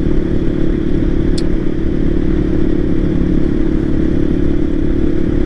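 Voge 300 Rally's single-cylinder engine running at a steady speed while riding, with low rumble from the road and wind. A brief click about a second and a half in.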